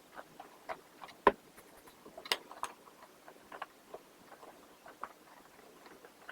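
Irregular light clicks and taps of plastic vacuum cleaner parts being handled and wiped with a cloth, with two sharper knocks, one a little over a second in and one about a second later.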